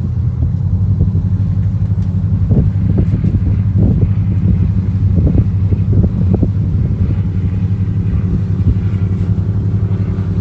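A motor yacht's engine running steadily underway, a low drone, with irregular short thumps of wind or water over it.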